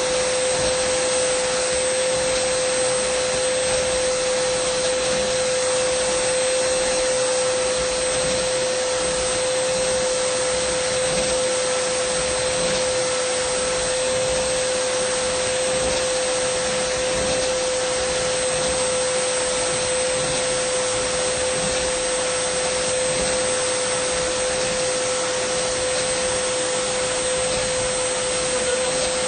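Dyson vacuum cleaner running steadily: a constant motor whine over a broad rush of air, with no change in speed or load.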